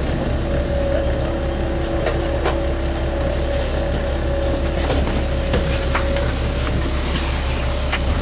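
Inside a single-car diesel railcar on the move: a steady low engine drone with a constant whine over it, a second lower whine that stops about five seconds in, and scattered clicks and rattles from the car body and track.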